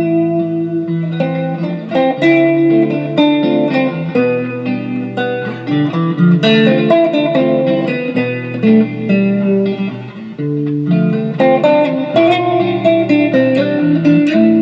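A 1965 Fender Mustang electric guitar playing a looped chord progression, with notes plucked and changing in quick succession.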